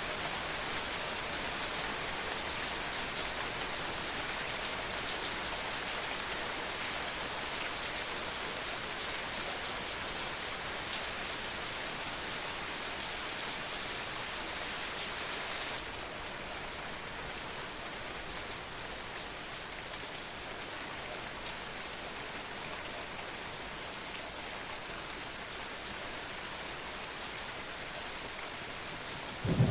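Steady rain falling on roofs and street, an even hiss that turns slightly quieter and duller about halfway through. A low thunder rumble breaks in right at the end.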